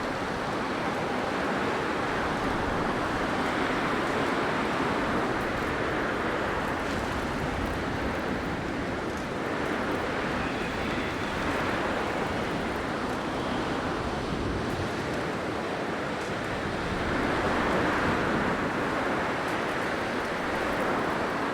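Blizzard wind blowing steadily, a dense rushing that swells and eases in slow gusts.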